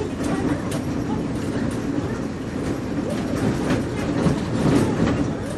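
Bus interior while riding: steady engine and road rumble with frequent rattles and clatter from the bus body, faint passenger voices underneath.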